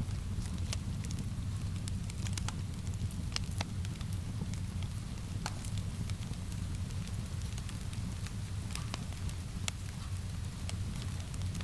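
Wood fire in a fireplace crackling, with frequent irregular sharp pops and snaps over a steady low rumble, with rain mixed in.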